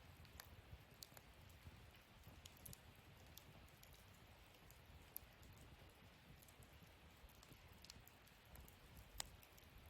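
Wood fire burning in a fire pit stand, crackling faintly with irregular small pops and one sharper pop near the end.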